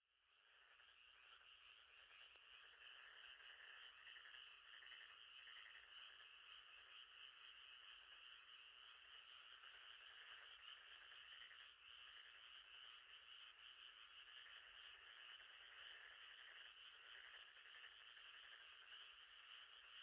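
Faint chorus of frogs calling at night, steady and dense throughout, coming back in after a brief dropout at the very start.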